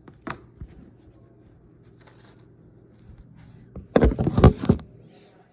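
Kitchen containers and utensils being handled: a single click, then a short burst of clattering knocks about four seconds in.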